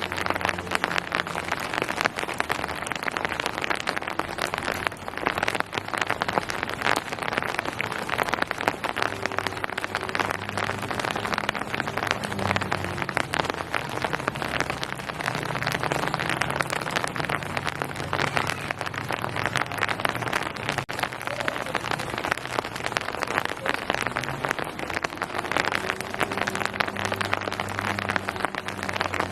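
Steady rain, a dense patter of drops hitting a surface without letting up, over a low steady hum.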